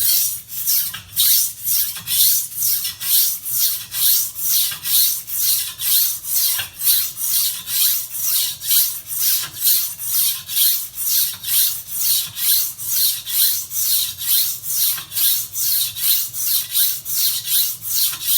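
Slicing knife blade stroked back and forth across a water-wetted whetstone with even, steady strokes: a rasping scrape about two to three times a second.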